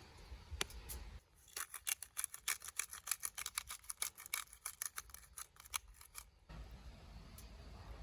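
A rapid run of light, sharp clicks, about five a second, lasting about five seconds and starting and stopping abruptly.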